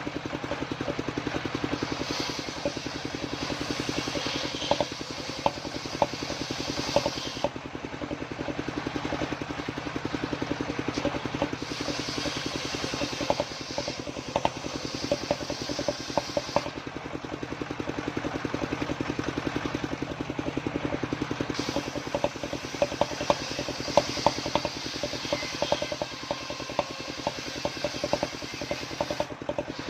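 Homemade engine-driven circular saw running steadily, its blade cutting through waru (sea hibiscus) wood in three long passes with short lulls between them, and scattered rattling knocks from the rig.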